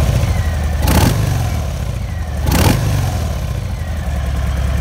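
2019 Harley-Davidson FXDRS's 114-cubic-inch V-twin idling through its stock exhaust, blipped in short throttle revs about a second in and again about two and a half seconds in, falling back to idle after each. The stock exhaust keeps it fairly quiet.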